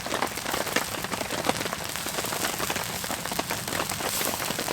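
Heavy rain falling steadily on a tent, a dense even patter of countless drops.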